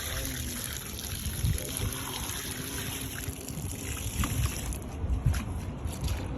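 Water running and splashing steadily, with a few knocks and low rumbling.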